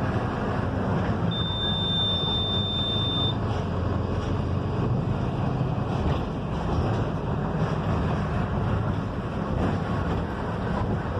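Mercedes-Benz OF-1721 bus on the move: steady engine and road rumble. A single high steady beep sounds about a second in and lasts about two seconds.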